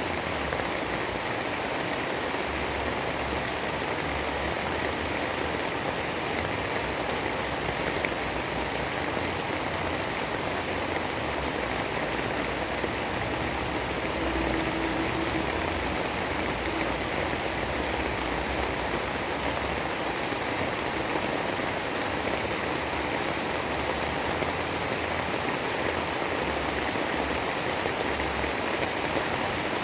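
Steady rain falling, an even, unbroken hiss of drops with no pauses or swells.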